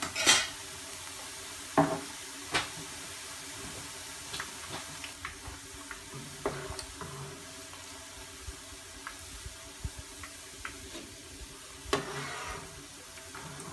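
Boondi frying in oil in a pan with a steady sizzle, while a slotted metal spoon scrapes and clinks against the pan a few times. The loudest scrapes come just after the start and near the end, when the fried boondi are scooped out.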